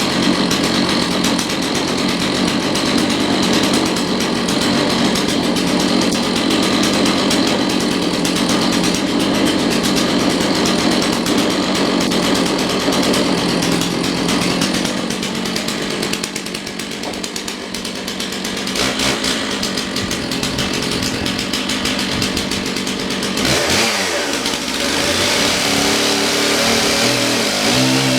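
Chainsaw cutting through a log under load with a worn chain filed down to nubs. A little over halfway through, the engine drops in pitch, then runs on with a steady pitched note that climbs again near the end.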